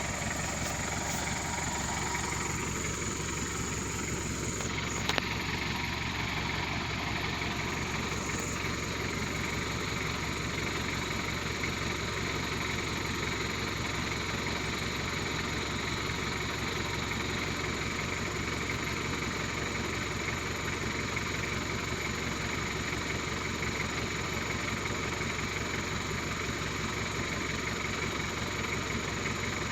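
Truck engine running steadily at an even, unchanging speed, with one brief knock about five seconds in.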